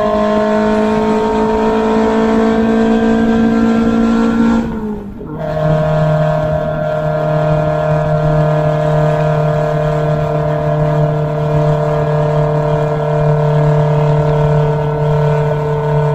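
Open racing car's engine pulling under load, its pitch climbing slowly. About five seconds in the sound dips briefly and the revs fall with an upshift, then the engine runs on steadily at the lower pitch.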